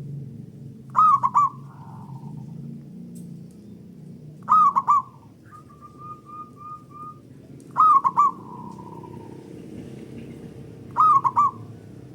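Zebra dove (perkutut) singing: four loud short phrases of quick cooing notes, one about every three and a half seconds, each trailing into a soft coo. A softer run of even notes falls between the second and third phrases.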